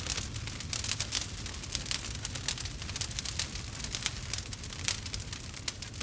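Campfire burning, with many irregular sharp crackles and pops from the burning wood over a low steady rumble of the flames.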